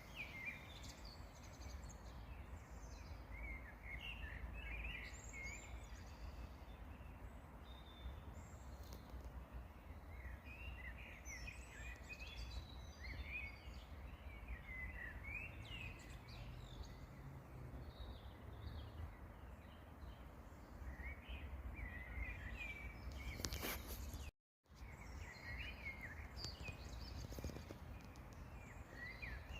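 Small songbirds chirping and warbling over a steady low rumble. About three-quarters of the way through, a short crackle is followed by a brief dropout of all sound.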